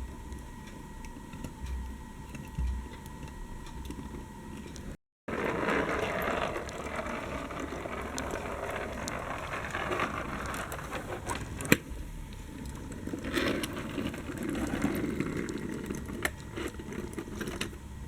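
Small electric motors and gearboxes of remote-control Siku Control model tractors whirring as they drive, with scattered clicks. A thin steady whine sits over the first few seconds, then the sound cuts out briefly about five seconds in and comes back louder.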